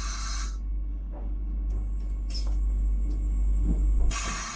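Vande Bharat Express electric train set running, heard from inside the coach as a steady low rumble that swells toward the end and eases off near the end. A brief hiss comes near the end.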